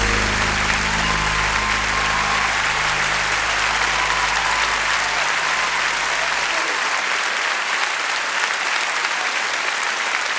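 Audience applauding at the end of a song. Under the clapping, the band's last held low notes ring on and die away about six seconds in.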